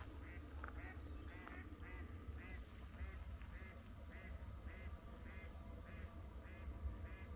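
Duck quacking in a steady repeated series, about two calls a second, over a low steady rumble.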